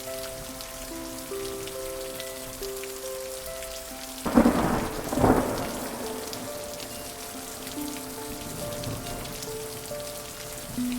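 Steady rain with a thunderclap about four seconds in: two loud cracks about a second apart that die away into a rumble, with a fainter rumble later. Soft, slow music of held notes plays underneath.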